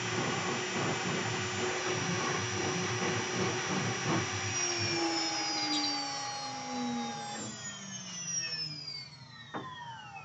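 CNC router's 2.2 kW air-cooled spindle and dust-extraction vacuum running steadily, then switched off about four or five seconds in. Several whines fall slowly in pitch as they spin down at the end of the carve.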